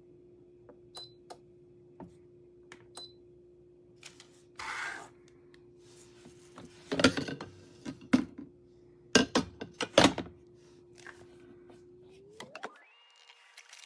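Clicks, clatter and several sharp knocks of hard kitchen parts being handled and set down, loudest between about seven and ten seconds in, over a steady low hum. The hum glides up in pitch near the end.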